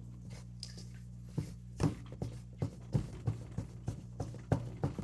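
Electric mixer running steadily with a low motor hum, its beaters knocking irregularly against the bowl as it mixes cookie dough.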